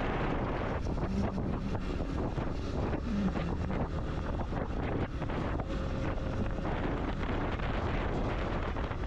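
Wind buffeting the microphone of a rider on a moving motorcycle, a steady rush with the motorcycle's engine running underneath.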